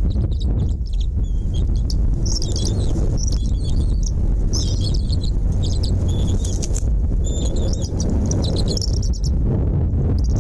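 Small birds chirping in quick high clusters that come again and again, over a steady low rumble.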